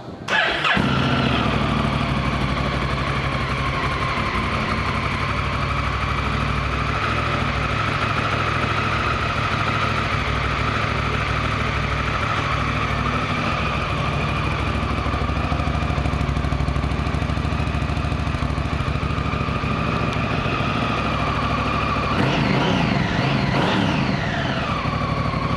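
2017 Honda Africa Twin's 998 cc parallel-twin engine starting about half a second in and then idling steadily, with a brief rev up and back down near the end.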